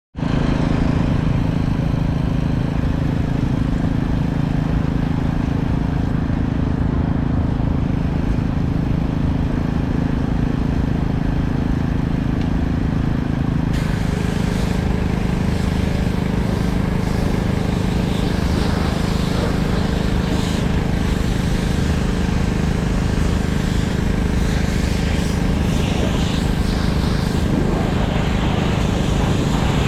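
An engine running steadily at constant speed. About halfway through, a hiss like water spray joins it and keeps going.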